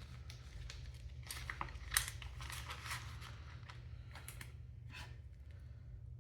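Paper banknotes and cash envelopes being handled: irregular rustling and crinkling with a few soft taps, the sharpest about two seconds in, over a low steady hum.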